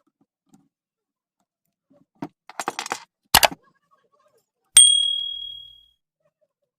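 Metal parts and tools being handled during a ceiling fan bearing repair: a brief rattle and clatter, a sharp knock, then a single sharp metallic clink that rings high and fades over about a second.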